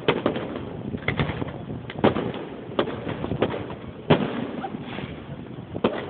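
Fireworks bursting: an irregular string of sharp bangs, roughly one every half second to a second, each with a short echoing tail. The loudest bang comes about four seconds in.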